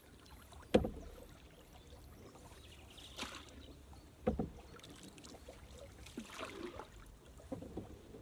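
Canoe paddling: paddle strokes swishing through the water every few seconds, with two sharp knocks on the canoe, the louder about a second in and another about four seconds in.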